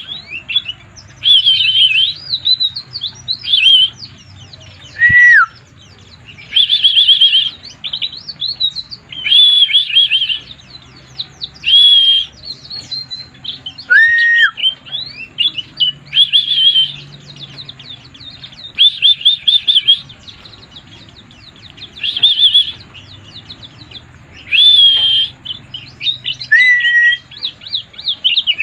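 A white-eye (pleci) singing in bursts of rapid, high twittering about a second long, every two to three seconds, with a few lone lower whistled notes between them. The bird is singing in the nonstop, excited way Indonesian bird-keepers call 'mabuk'.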